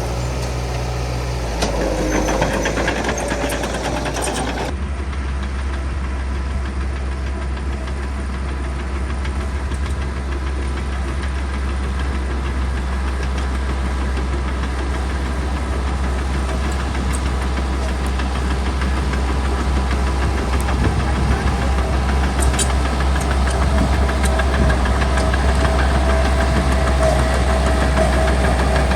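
Bulldozer's diesel engine running steadily under load, a deep continuous drone, growing slightly louder toward the end.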